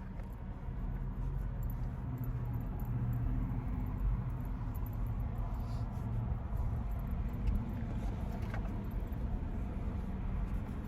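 Car engine running, a steady low rumble heard from inside the cabin, with a few faint clicks.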